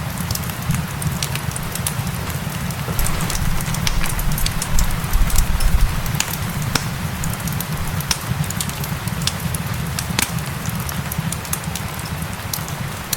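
Wood fire crackling with frequent sharp, irregular pops over a steady rain hiss and a low rumble, which swells briefly about five seconds in.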